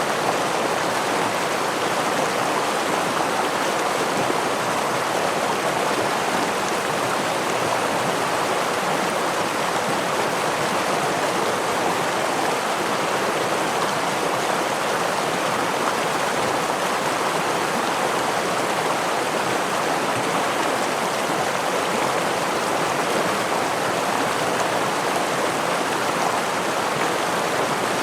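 A stream of water rushing over rocks, with small waterfall spill: a steady, even rush that does not change.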